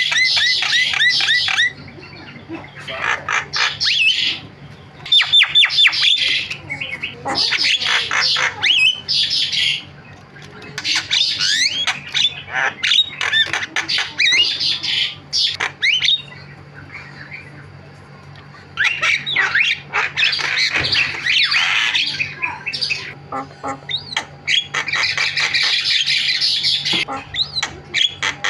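Javan myna (jalak kebo) chattering: bouts of rapid harsh squawks and whistled notes, broken by short pauses of a second or two.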